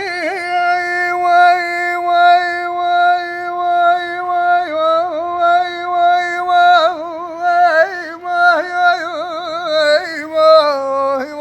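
A solo voice singing Tunisian rakrouki, held on long sustained notes broken by quick trilled ornaments, with no instrument underneath.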